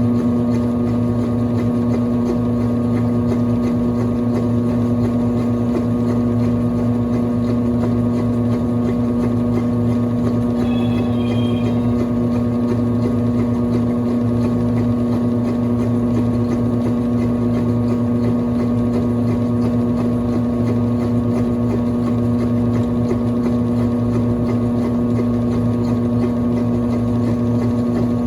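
1996 Brastemp Clean 5 kg washing machine running with a steady, unbroken motor hum.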